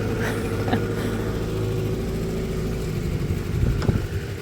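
A small canal cruiser's engine running steadily under way, with a few light knocks and a low thump near the end.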